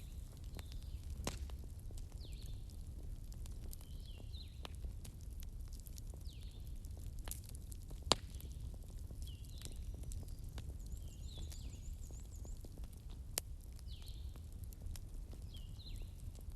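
Fireplace fire crackling, with scattered sharp pops over a steady low rumble; the loudest pop comes about halfway through. Short high chirps recur every couple of seconds, with a brief fast trill in the second half.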